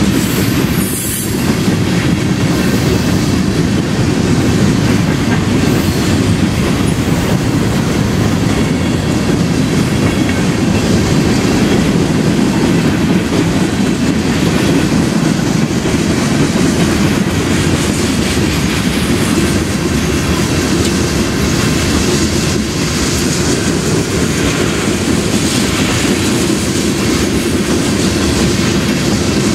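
Freight train of tank cars and gondolas rolling past close by: a loud, steady rumble of steel wheels on rail.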